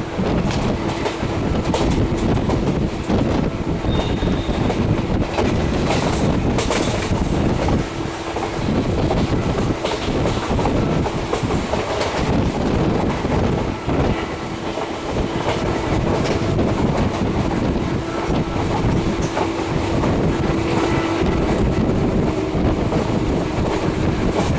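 Passenger train running along the track, its wheels clattering over the rail joints under a steady rumble and hum, heard from on board.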